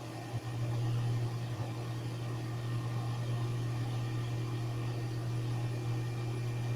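Heat gun running steadily, its fan motor humming under an airy hiss, as it shrinks heat-shrink tubing over soldered switch connections; it switches on about half a second in.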